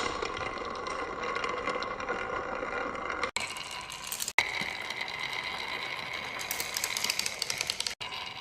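Marbles rolling and rattling along a wooden marble run track, a steady clattering run of fine ticks, broken off abruptly three times by edits.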